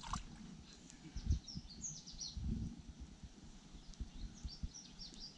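Small birds chirping in short, high notes, in two spells, with a few soft low thumps close by.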